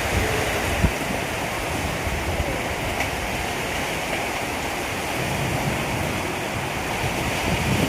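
Heavy storm: a steady rush of wind and pouring rain, with low buffeting. A single short thump comes just under a second in.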